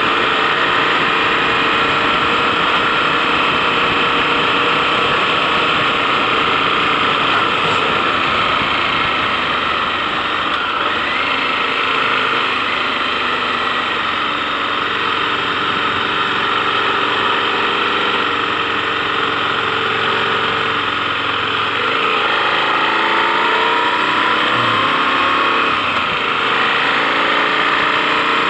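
KTM 1090 Adventure's V-twin motorcycle engine running on the road. It eases off through the middle, then picks up again about three-quarters of the way in, its pitch rising as it accelerates.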